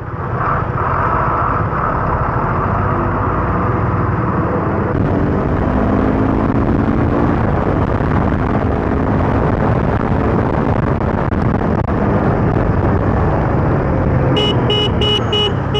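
Motorcycle and road traffic running steadily in city traffic, with a vehicle horn tooting about five times in quick succession near the end.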